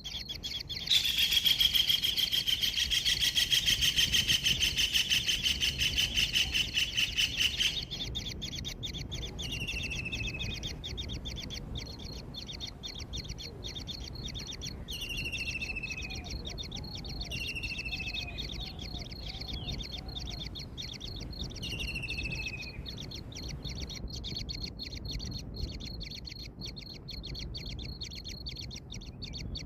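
Birds calling: a loud, rapid chattering trill for about seven seconds, then four short whistled notes that each fall in pitch, over a steady high buzz.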